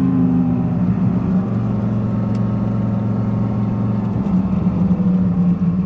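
Dodge Viper GTS's 8.0-litre V10 running steadily while the car cruises, a low even engine note.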